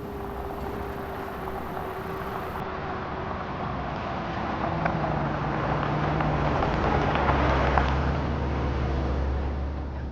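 A motor vehicle's engine running with a steady low rumble, growing louder towards the middle and easing off near the end.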